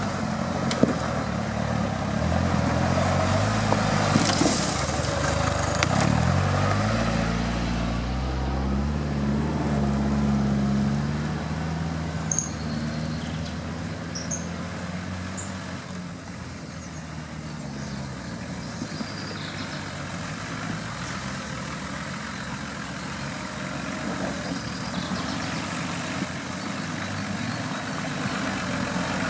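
Off-road vehicle engine working under load, its pitch climbing over several seconds, then dying away about twelve seconds in to a lower steady rumble.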